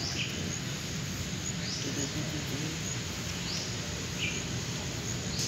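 Outdoor garden ambience: a bird's short, high chirps repeating about every second and a half, over a steady background hiss.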